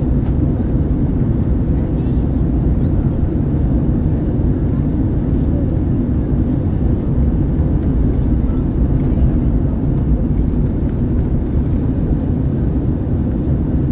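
Steady cabin rumble inside an Airbus A321-111 in flight: airflow noise and the drone of its CFM56 jet engines, heavy in the low end and unchanging.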